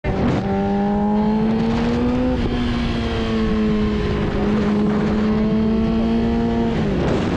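Vehicle engine running under heavy wind noise. Its note rises for about two seconds, drops as at a gear change, holds steady, then falls away near the end.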